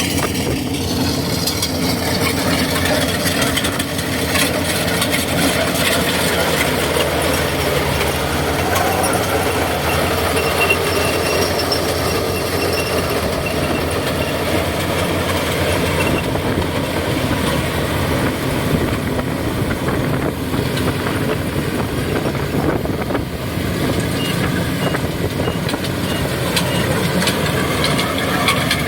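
Kubota DC70G combine harvester running steadily while harvesting, its diesel engine and threshing machinery a continuous drone, mixed with strong gusting wind.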